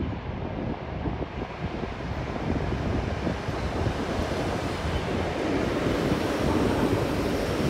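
Wind buffeting the microphone over the rumble of an electric suburban train running along the platform, growing steadily louder.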